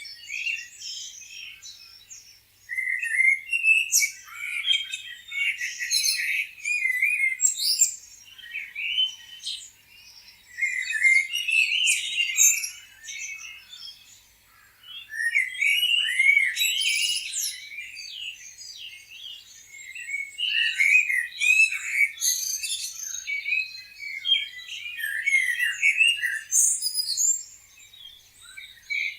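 Small birds chirping and twittering, many high-pitched calls overlapping in busy bursts, with brief lulls about 2, 10 and 14 seconds in.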